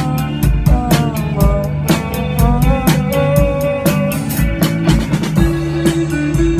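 A rock band playing: a drum kit keeps a steady beat under electric guitar and bass, with a melody line that bends in pitch.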